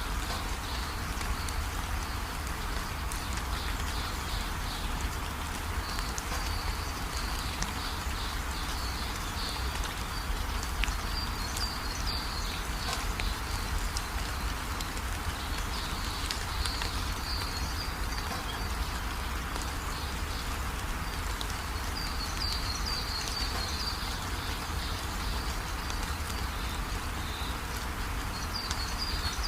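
Steady rainfall, an even hiss of falling rain, with high chirping animal calls coming and going over it in short clusters.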